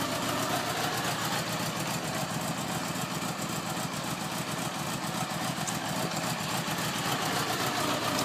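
1976 Honda Gold Wing's flat-four engine idling steadily through its stock mufflers.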